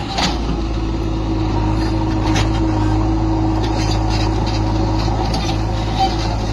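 Heavy diesel engine running steadily, with a low constant drone and a couple of short knocks.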